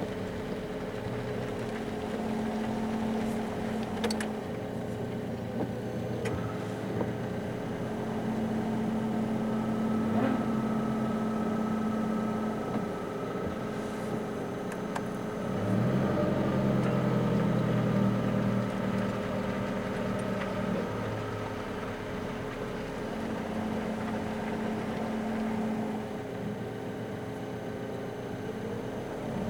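Car engine running steadily under way. About halfway through the engine note rises and gets louder for a few seconds as the car accelerates, then settles back to a steady drone.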